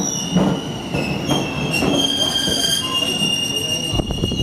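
Steel train wheels squealing against the rails as a train moves slowly. Several high, steady squeal tones shift pitch over a low rumble, with a few knocks near the end.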